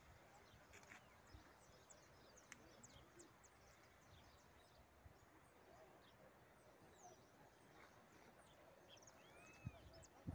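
Near silence with faint outdoor ambience: scattered small bird chirps and calls, and a soft low knock near the end.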